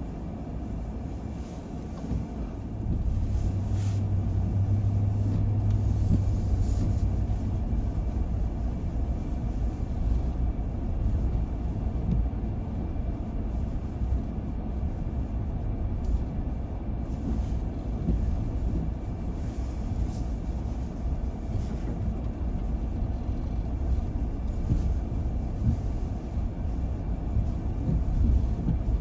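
A car driving: a steady low rumble of engine and tyres that grows louder about two and a half seconds in.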